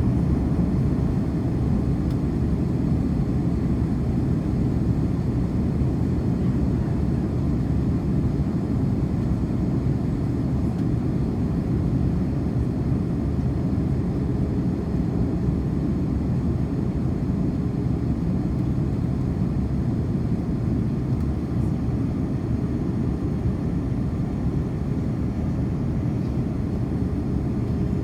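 Airbus A330-300 cabin noise heard from inside the cabin: a steady low drone of the engines and airflow with no change in pitch or level.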